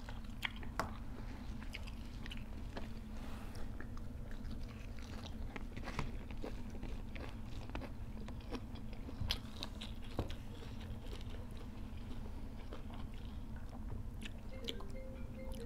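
Eating sounds of two people: chewing and crunching raw vegetables and leafy greens, with scattered small crunches and mouth clicks over a low steady hum.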